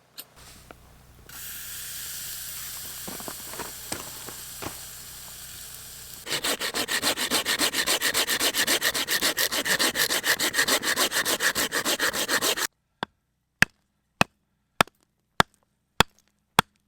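Steak starting to sizzle on a grill plate set over campfire embers. Then a loud rhythmic rasping comes in, about five strokes a second for several seconds, and stops abruptly. After it come sharp single clicks about every half second.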